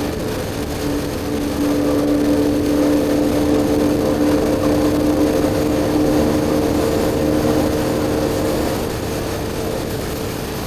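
BMW R1250GS Adventure's boxer twin running through an Akrapovic slip-on exhaust at a steady cruise, over a constant rush of wind and road noise. The engine note holds steady, getting a little louder about two seconds in and easing near the end.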